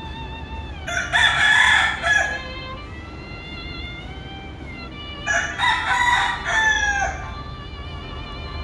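Roosters crowing: two full cock-a-doodle-doo crows about four seconds apart, each lasting nearly two seconds.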